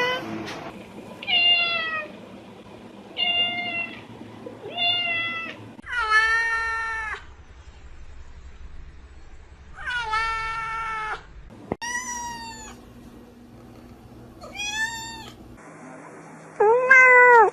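Domestic cats meowing: about eight separate drawn-out meows, several rising and then falling in pitch. They come from different recordings, so the background hum changes between them, and the last meow is the loudest.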